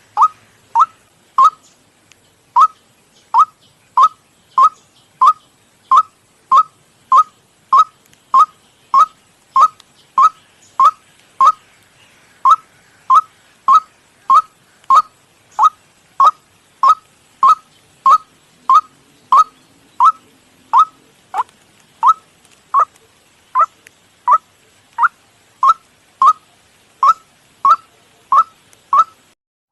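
White-breasted waterhen call: one short, clipped 'kwak' note repeated at a steady pace of about three notes every two seconds, each note rising slightly in pitch. This is a lure recording of the kind played through a speaker to draw the birds in for trapping.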